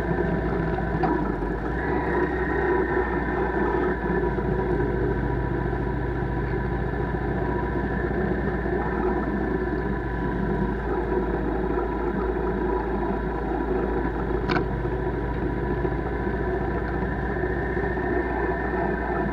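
Steady running noise of a bike ridden at an even pace: a constant hum holding a few steady tones over road and wind noise, with one sharp click about fourteen and a half seconds in.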